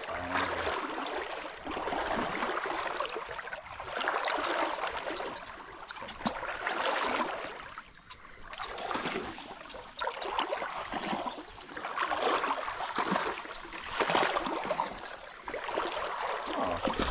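Creek water splashing and sloshing in repeated surges every two seconds or so, as something moves through the water, over a steady background of flowing water.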